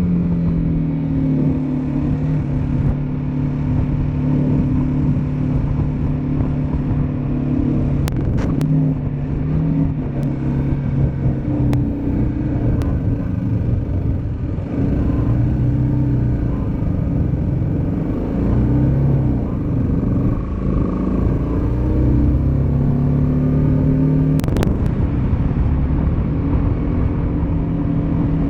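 Motorcycle engine running under way, its pitch steady at times and rising and falling as the revs change, with a few sharp clicks.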